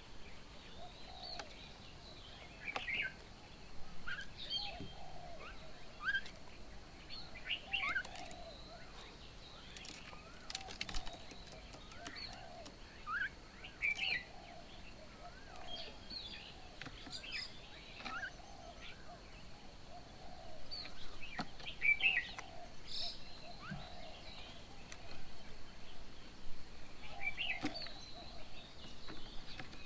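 Several birds calling and chirping, with short sweeping chirps scattered throughout and a lower call repeating over and over.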